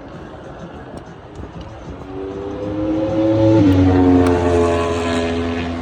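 A motorcycle passing at speed: its engine note builds, drops in pitch as it goes by about three and a half seconds in, and fades away.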